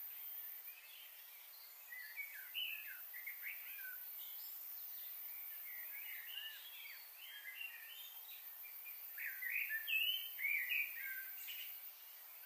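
Birds chirping outdoors, a busy run of short notes that slide up and down, thickest from about two seconds in to near the end, over a faint steady background hiss.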